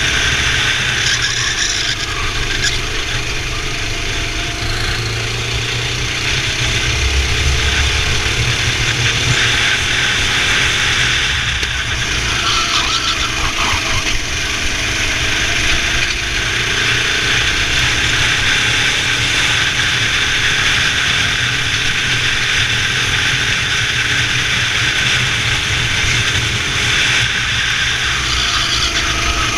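Racing kart engines running at speed, their pitch rising and falling over and over as the throttle is opened and eased.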